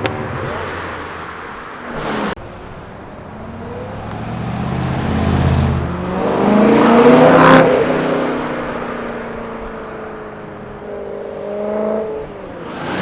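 Car engines accelerating past, one after another, with engine tones that build to the loudest pass about seven seconds in. A brief rushing burst cuts off sharply just after two seconds. A steadier engine note rises slightly near the end.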